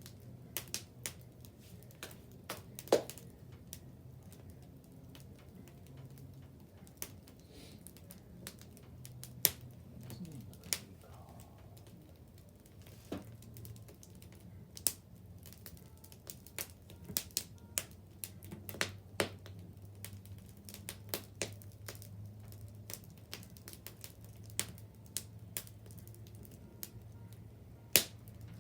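Wood bonfire crackling, with irregular sharp pops and snaps, a few much louder than the rest, over a faint low steady hum.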